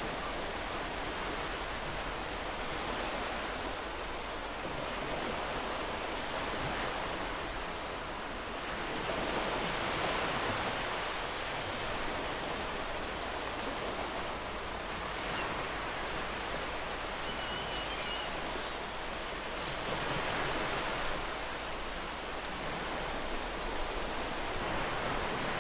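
Ocean surf breaking and washing up a shore: a continuous rush that swells gently every several seconds as waves come in.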